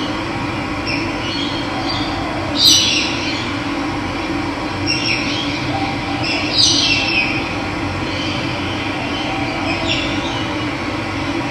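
Steady rush of running water with wild birds calling over it: a few short, downward-sliding calls, the loudest about two and a half and six and a half seconds in, fainter ones near five and ten seconds.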